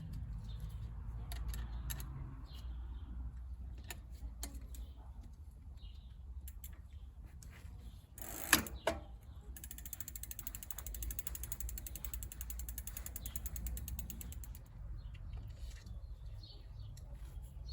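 Bicycle rear freewheel ticking rapidly and evenly for about five seconds as the wheel spins, its pawls clicking over the ratchet. A single loud knock comes just before, with scattered small clicks earlier.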